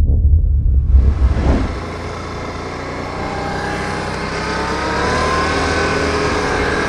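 ATV engine running under way, its pitch climbing gradually as it speeds up, with wind and trail noise. It takes over about a second in from bass-heavy music that ends.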